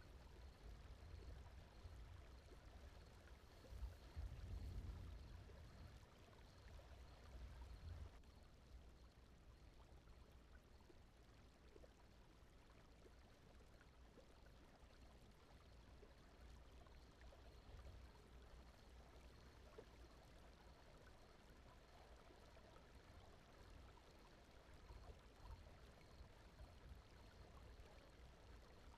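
Faint steady brown noise: an even, low rumbling hiss with no voice, a little stronger in the first several seconds.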